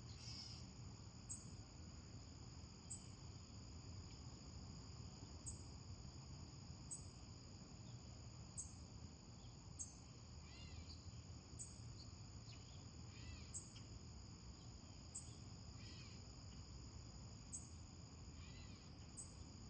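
Faint nature-sound backdrop: a steady insect chorus with a short chirp repeating about every second and a half, and a few brief bird-like calls in the second half.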